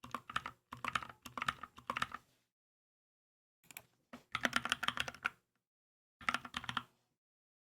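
Typing on a Keychron K2 mechanical keyboard: quick runs of keystroke clacks in three bursts, the first about two seconds long, separated by short pauses.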